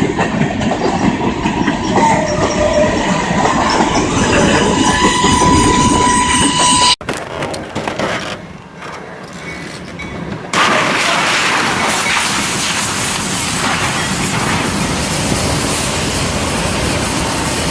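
Train running on the rails, a loud rumble and rattle with a steady high tone over it that cuts off abruptly about seven seconds in. After a few quieter seconds, loud train noise starts again suddenly.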